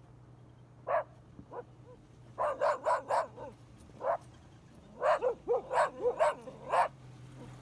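A dog barking: a dozen or so short barks, a few single ones and two quick runs of several barks each.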